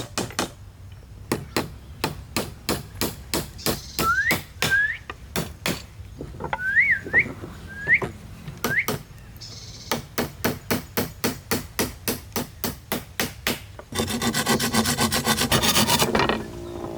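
Quick, regular hammer strikes on wood, about three to four a second, running for most of the time. Near the end they give way to a couple of seconds of rasping, like a saw or rasp cutting wood.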